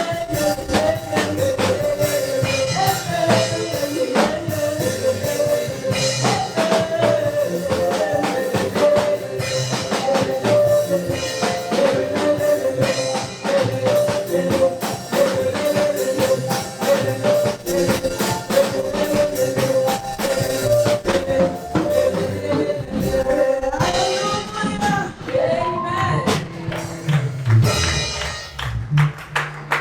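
Live gospel praise music: a drum kit and tambourine keep a steady beat under a melody line, with singing.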